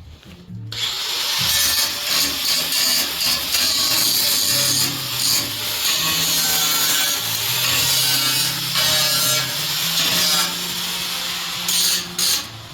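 A power tool grinding steel, a steady harsh hiss that starts about a second in and keeps going with brief dips, stopping near the end.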